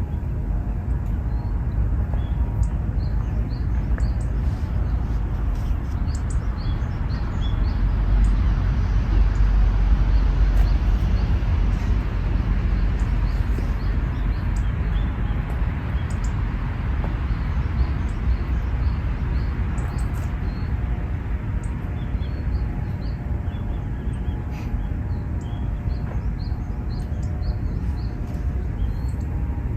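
Small birds chirping in short, scattered calls over a steady low outdoor rumble, which swells for a few seconds about ten seconds in.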